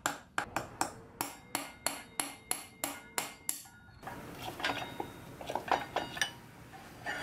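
Hammer tapping out a motorcycle's front wheel axle, sharp even strikes about three a second for the first three and a half seconds, then irregular metallic clinks and clatter.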